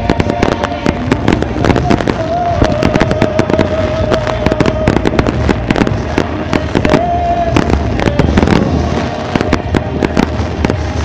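Aerial fireworks shells bursting in quick succession, many sharp bangs and cracks each second, in a dense barrage like a starmine.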